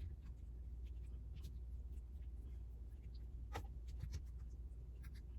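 Faint clicks and light scraping of food and kitchen items being handled while a dish is assembled, over a steady low hum; the clearest clicks come a little past halfway.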